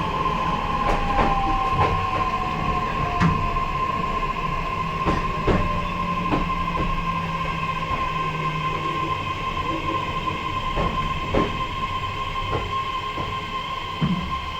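Running sound inside an E131 series 1000 electric train's motor car: a steady high squeal and a fainter tone falling in pitch over the first few seconds. Irregular clicks of the wheels over rail joints run through it, and the whole gradually grows quieter as the train slows toward the terminus.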